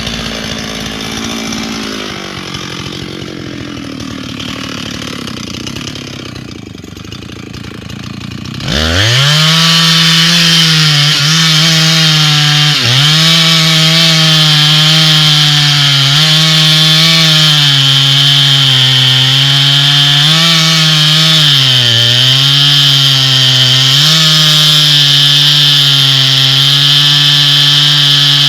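A quieter rasping, scraping sound for the first eight or nine seconds. Then a two-stroke chainsaw engine cuts in loud at full throttle, with a high chain rasp. Its pitch sags repeatedly and recovers as it bogs under load in the cut.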